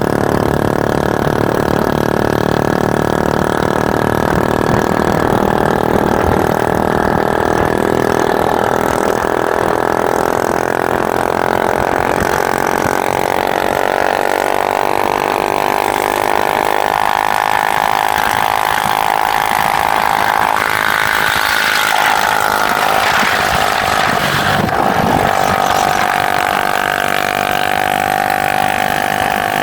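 Motorcycle engine running steadily, its pitch drifting up and down a little.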